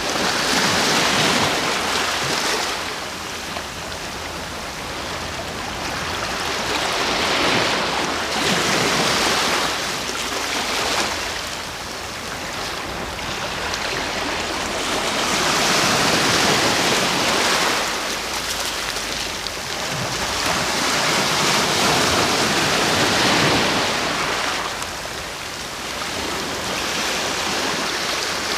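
Ocean waves breaking and washing onto the shore, the surf swelling and falling back in slow surges every few seconds.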